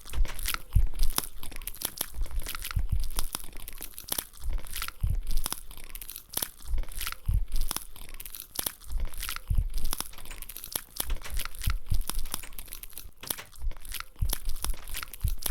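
Close-up eating sounds: crunchy food being bitten and chewed, mixed with crinkling and tearing like a snack packet being handled, in an irregular run of crackles.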